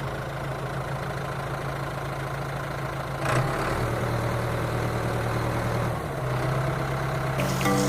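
An engine idling with a steady low hum that shifts slightly in pitch a few times, typical of a tractor or truck engine sound.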